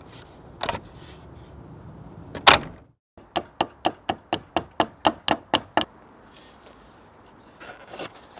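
Two separate sharp knocks, then a quick even run of about a dozen sharp knocks, about five a second, that stops short.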